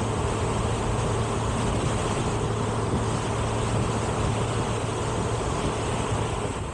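Motorcycle running at a steady cruising speed on the highway, with a constant engine drone under heavy wind and road noise.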